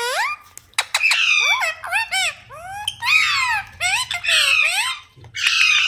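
Rose-ringed parakeet (Indian ringneck) calling in a rapid string of shrill squawks and chirps: quick rising and falling whistles broken by harsh screeches, with a brief pause about five seconds in.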